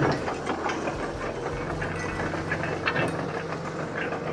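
Heavy equipment engine running steadily, with a few metallic clanks.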